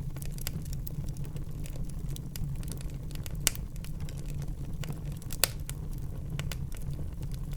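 Wood fire burning in a fireplace: a steady low rumble of the flames under frequent small crackles, with two loud sharp pops, one about halfway through and one about two seconds later.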